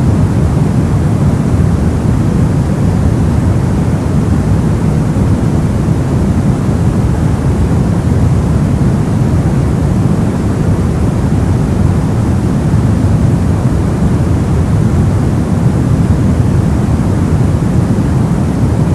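Steady synthetic noise for sleep, even and unchanging, weighted toward the low end, so it sounds deep and soft rather than hissy.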